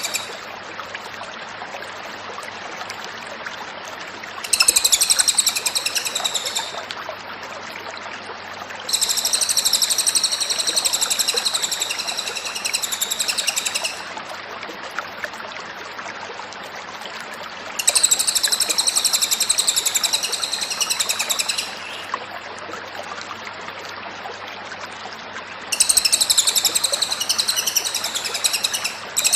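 Cililin bird singing in four bursts of rapid, high twittering song, each a few seconds long, with pauses of several seconds between them.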